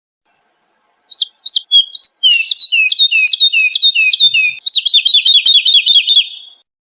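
Woodlark singing one song phrase: a few soft high notes, then a run of repeated falling whistled notes that speeds up into a quicker trill near the end before stopping.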